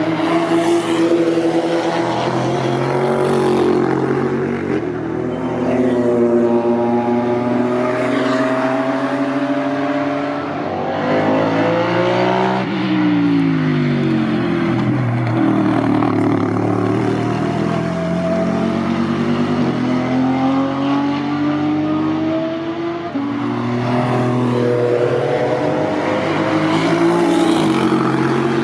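Lexus RC F GT3 race car's V8 engine accelerating and shifting through the gears as it passes at speed. The pitch climbs and falls several times, with a sharp drop as it goes by about halfway through.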